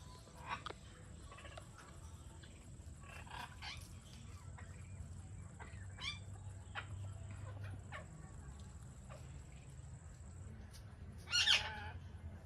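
Indian ringneck parakeet calling: short scattered chirps and squawks, then one loud harsh squawk near the end. A faint steady high-pitched whine runs underneath.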